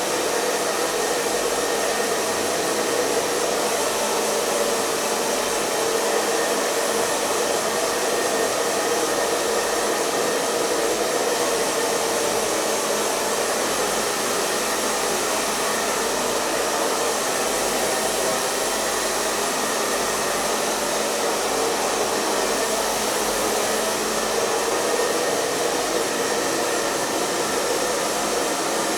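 Hair dryer running steadily: a constant rushing hiss of blown air with a motor hum and no change in speed.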